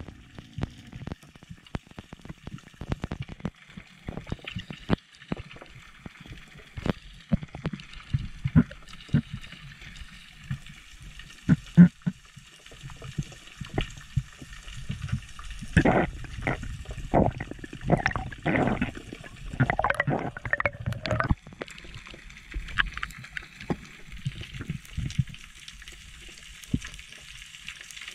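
Water gurgling and sloshing with many scattered clicks and knocks, and a louder run of knocks and short pitched sounds a little past the middle.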